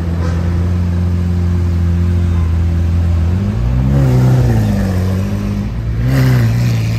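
A car engine idling steadily, then revved twice: once about halfway through and again near the end.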